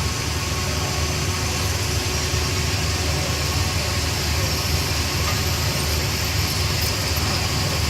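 Tube barrel-forming machine (CNC-600) running with a steady low motor hum and a light, even whir above it, with no strikes or breaks.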